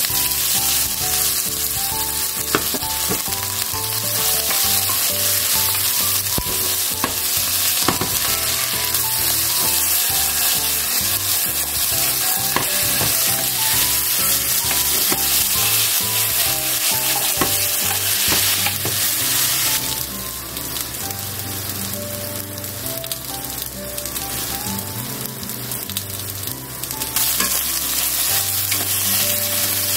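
Raw potato sticks sizzling in hot oil in a frying pan, the sizzle starting at once as they are tipped in. A wooden spatula stirs them, with scattered taps and scrapes on the pan. The sizzle eases for several seconds in the second half.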